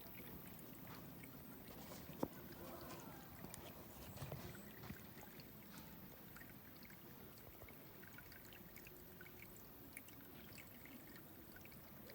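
Faint trickling or pouring water, with scattered small ticks and one sharp click about two seconds in.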